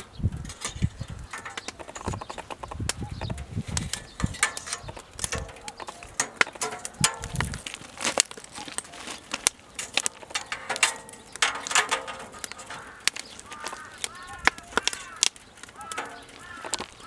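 Burning firewood crackling and popping in a double-combustion fire pit, with irregular sharp snaps throughout. Low gusts of wind rumble on the microphone in the first half, and a few short arching calls come in near the end.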